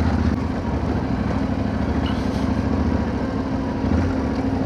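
Generator engine running steadily at a constant speed, a low even hum with one held tone.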